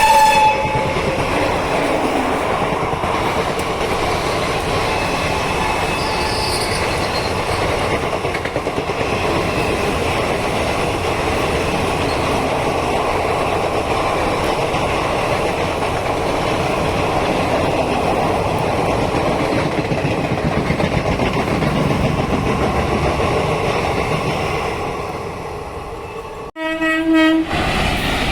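Indian Railways train rolling past at speed: a steady rumble and clatter of coaches on the track, with a locomotive horn blast trailing off just at the start. Near the end the rumble fades, breaks off, and a short horn blast sounds before the train noise picks up again.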